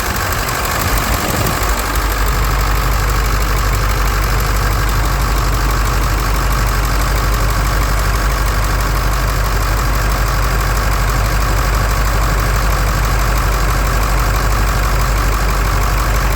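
1999 Ford F450 truck engine idling steadily, still cold after a cold start.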